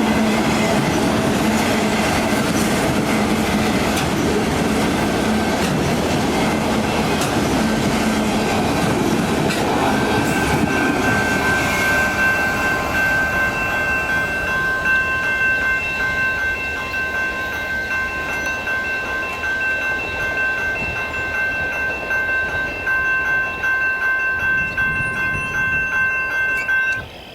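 A Union Pacific freight train's cars rolling past over the grade crossing, wheels clattering on the rails, the rumble slowly dying down. From about ten seconds in, a steady high ringing is heard over it until the sound cuts off near the end.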